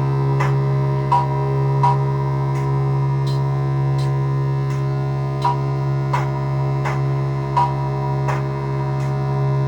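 Modular synthesizer music: a steady low drone under short, sharp clicking blips that come at irregular intervals, about one or two a second, several with a brief high ping.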